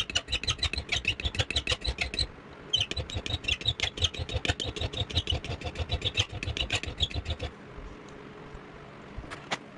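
Fine hand file stroking rapidly back and forth across a MIG welder contact tip, an awful, nails-on-a-chalkboard screech. The strokes pause briefly about two seconds in, then stop about two seconds before the end, leaving two faint clicks.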